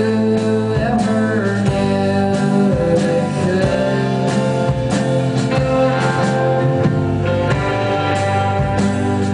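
A live band playing a song: guitars over a steady drum beat, with singing.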